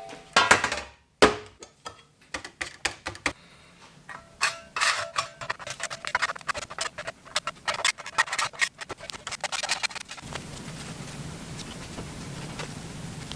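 A rapid, irregular run of sharp clicks and knocks, as of tools and small parts being handled on a workbench, then a steady low hum that starts about ten seconds in.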